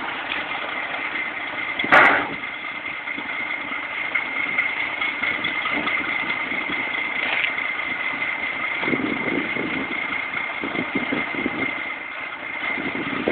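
Engine running steadily during a truck recovery, with a constant high whine on top and one sharp knock about two seconds in.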